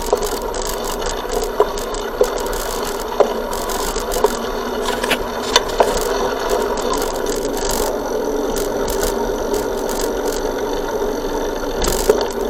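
Bicycle ridden along a forest track, picked up by an action camera mounted on the bike: a steady rattling rumble with irregular sharp knocks from bumps in the track.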